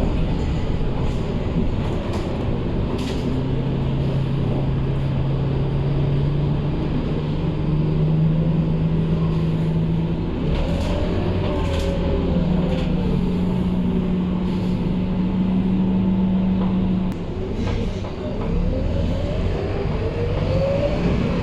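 Scania K230UB city bus's diesel engine running under way. Its steady drone climbs in pitch in steps as the bus gathers speed, then eases off near the end, with gliding drivetrain whines and a few short clicks and rattles.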